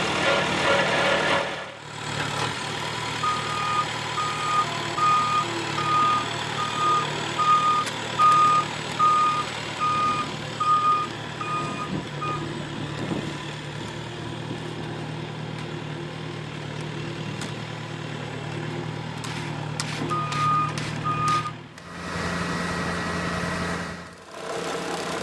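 Heavy road-construction machine's engine running, with its reversing alarm beeping steadily about once a second for several seconds, then twice more near the end. The engine sound changes abruptly a few times.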